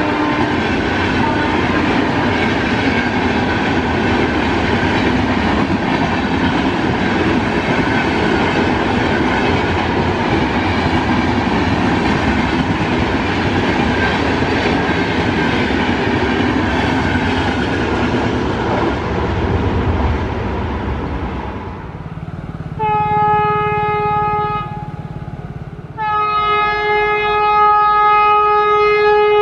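Electric-hauled train of LHB passenger coaches passing close at speed, a steady rush of wheels on rail that dies away about 21 seconds in. Then an approaching Vande Bharat trainset sounds its horn in two long blasts, one steady chord.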